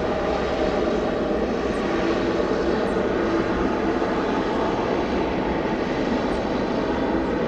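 Airliner's engines passing close by: a steady rush of noise with a low hum that builds just before and holds.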